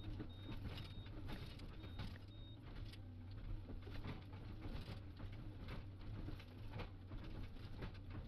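Excavator engine running with a steady low hum, under heavy rain pattering and irregular clicks and ticks.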